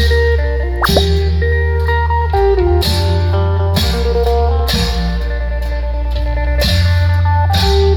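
Isan procession band music played loud through a sound system: a plucked, sliding lead melody over heavy bass, with a drum and cymbal strike roughly every second.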